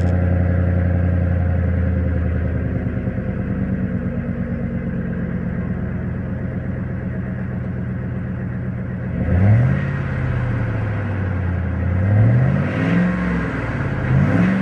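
2006 Ford F-150's 5.4 V8 running cold through a Flowmaster 40 Series exhaust. It idles steadily, the idle settling a little lower about two seconds in, then the throttle is blipped three times near the end, each rev rising and falling.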